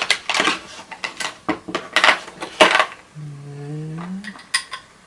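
Small metal screwdriver bits clinking and rattling as they are picked out of a bit set and tried in a bolt head, with a short hummed voice sound rising slightly in pitch about three seconds in.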